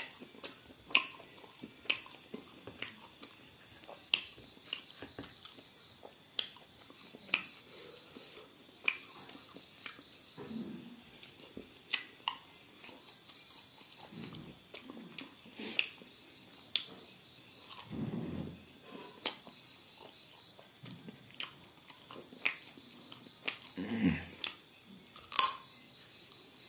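Close-miked eating of fried chicken with the fingers: chewing with sharp wet mouth clicks and lip smacks about once a second, with a few short low throat sounds in between.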